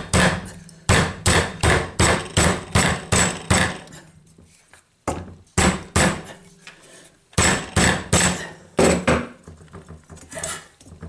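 Runs of hammer blows, about three a second, with short pauses between runs and a few lighter taps near the end: a small engine's flywheel being tapped onto its crankshaft over a shear key.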